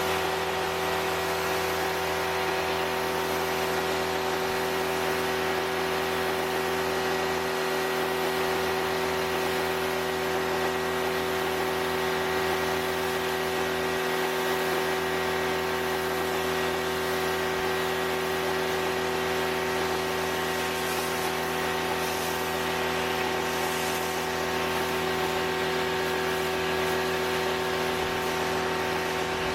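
Stanley electric pressure washer running continuously with the trigger held: a steady motor-and-pump whine of many even tones over the hiss of the water spray.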